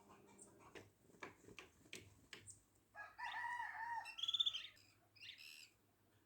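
A bird pecking several sharp taps, likely its beak on the mirror at its reflection, then giving a loud call of about two seconds that ends in a rapid high trill, with a shorter call after it.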